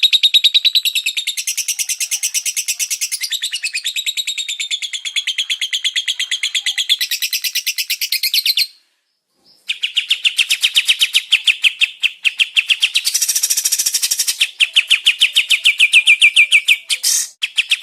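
A songbird singing in long, rapid runs of quickly repeated high chirping notes. The song breaks off for about a second near the middle, then resumes just as fast.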